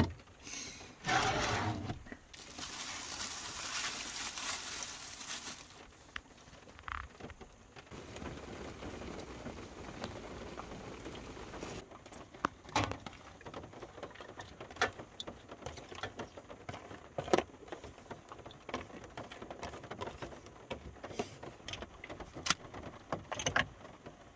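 Rain pattering on a camper van's roof, with scattered knocks and clinks of plates, bowls and jars being set down and put away on the counter and shelves. A few seconds in, a loud hiss lasts for about three seconds.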